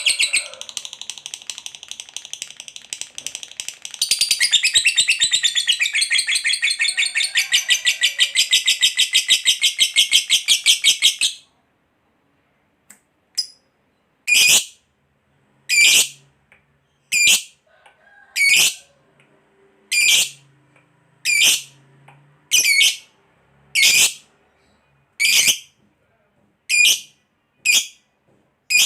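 Lovebird giving a long 'ngekek': a rapid, high-pitched chattering trill that stops about eleven seconds in. After a short pause it gives single sharp calls, about one every second and a half.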